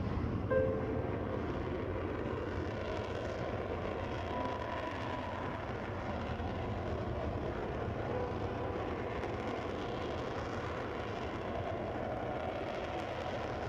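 Tornado GR4 jet, with its twin RB199 turbofan engines, running as a steady roar with a deep rumble and a faint whine on top.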